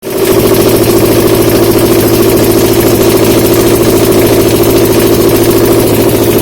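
Subaru FB20 2.0-litre flat-four engine running on a test stand, idling steadily with no change in speed.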